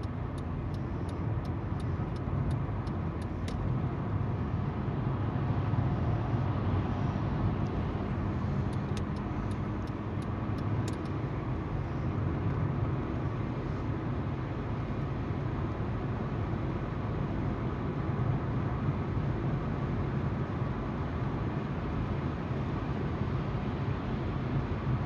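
Car driving, heard from inside: a steady engine hum and tyre noise on the road. Two short runs of regular ticking, one at the start and another about nine seconds in.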